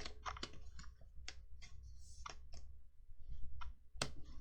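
Paper trading cards being handled: an uneven run of sharp clicks as cards are flicked through and set down, with one louder click near the end.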